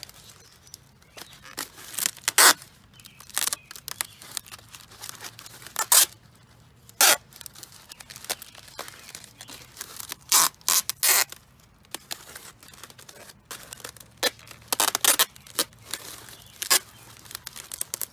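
Tape being pulled off its roll and torn, in a series of short, sharp rasps at irregular intervals.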